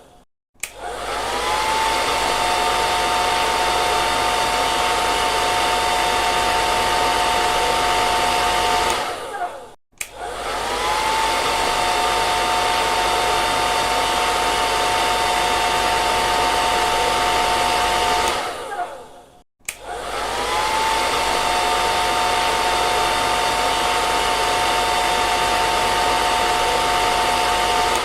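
Hair dryer switched on three times: each time the motor whine rises to a steady high pitch over the rushing blown air, runs for about nine seconds, then winds down and stops.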